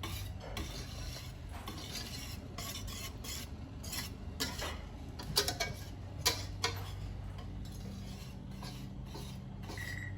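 A utensil stirring and scraping through a thick cream-cheese sauce in a pan, with repeated clinks and scrapes against the pan and a few louder knocks a little past the middle. A steady low hum runs underneath, and a short beep sounds near the end.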